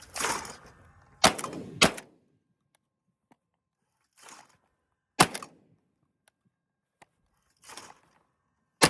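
Benelli M2 20-gauge semi-automatic shotgun firing four shots: two about half a second apart a little over a second in, then one about five seconds in and one near the end, with softer rushes of noise between them. The gun cycles through all four shells without jamming.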